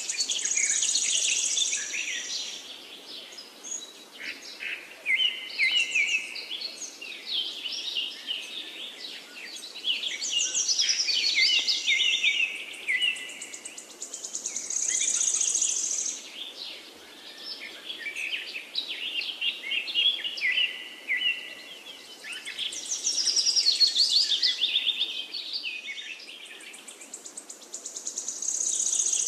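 Small songbirds singing, phrases of quick chirps and whistles overlapping almost without pause. A high trill comes back every several seconds, over a faint steady background hiss.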